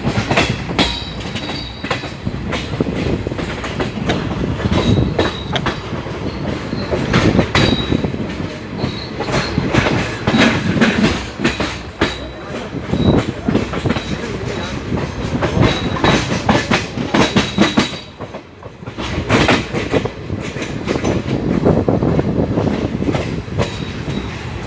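Triveni Express passenger train running on the rails: a steady rumble with a continual clickety-clack of wheels over rail joints and points, and short high wheel squeals. There is a brief lull about three quarters of the way through.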